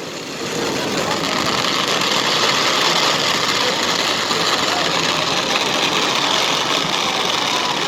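Fireworks crackling steadily: a dense, unbroken rapid crackle that follows separate bursts and holds at an even level.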